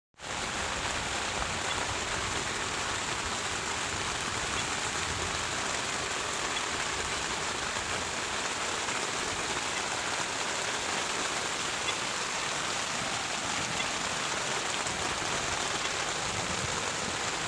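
Heavy rain from a rainstorm falling steadily, an even, unbroken hiss.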